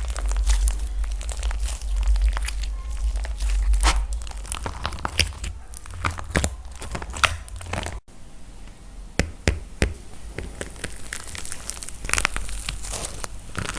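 Dried plaster clay being cracked and crumbled by hand: a run of crisp crackles and snaps, broken briefly about eight seconds in.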